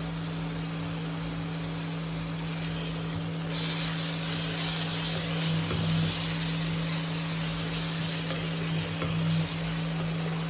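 Chopped onions frying in oil in a pan, a steady sizzle that gets louder about a third of the way in, over a steady low hum.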